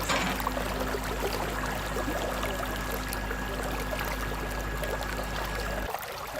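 Water running and pouring steadily over a low hum, with a brief drop-out near the end.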